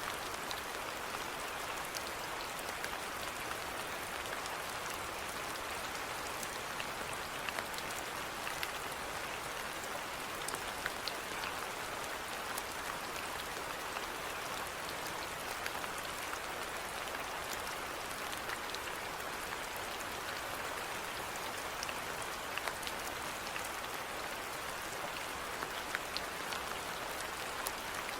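Steady rainfall, an even hiss with scattered individual drops ticking sharply on a surface.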